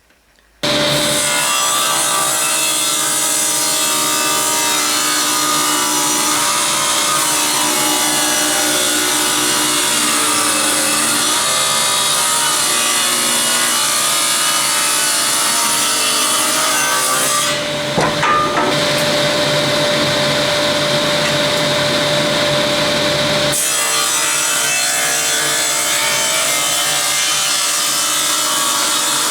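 A woodworking tool cutting or abrading wood, a continuous sawing or sanding noise that starts abruptly half a second in and holds an even level. Its character changes about 17 seconds in and changes back about 23 seconds in.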